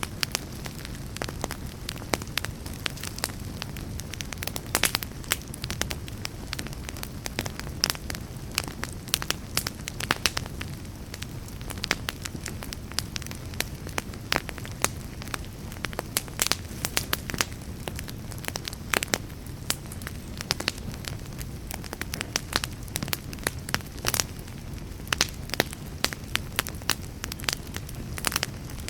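Wood fire burning in a fireplace, crackling continuously: many sharp pops and snaps, irregular and close together, over a steady low rumble of the flames.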